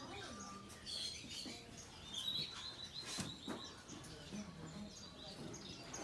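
Caged pet birds chirping: a busy scatter of short, high calls, with a couple of knocks about three seconds in.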